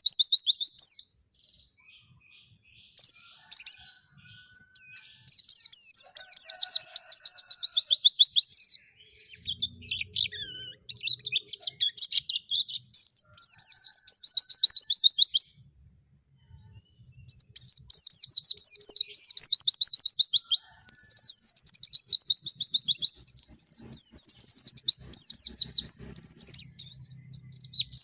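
White-eye (pleci) singing a vigorous wild-style song: long phrases of rapid, high chattering notes, repeated with short breaks between them.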